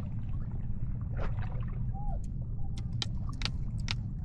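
Low steady rumble of a boat's motor running, with a handful of sharp clicks and knocks, most of them bunched together in the second half.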